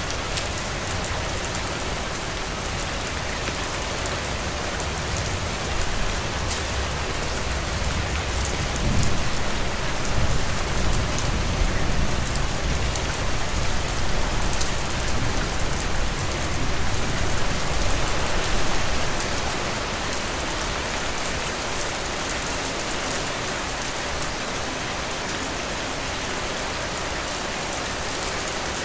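Heavy rain falling steadily as a dense, even hiss with the patter of drops. A low rumble swells about eight seconds in and fades out by about twenty seconds.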